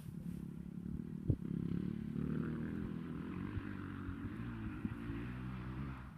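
Motocross bike engine running on the track, a steady engine note that fades a little near the end, with a sharp knock about a second in.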